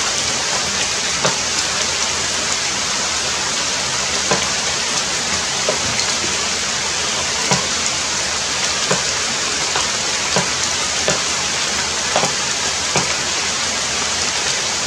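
Heavy rain falling steadily, with louder single drops striking now and then.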